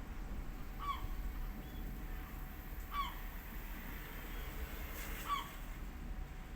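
A bird calling: four short single calls about two seconds apart, each dropping slightly in pitch, over a steady low background rumble.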